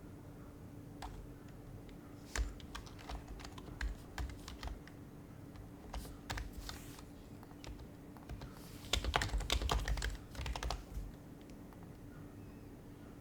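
Typing on an HHKB Professional HYBRID Type-S keyboard, its silenced Topre capacitive switches giving soft, muted keystrokes. Scattered keystrokes with pauses give way to a fast run of typing shortly before the end, then the keys go quiet.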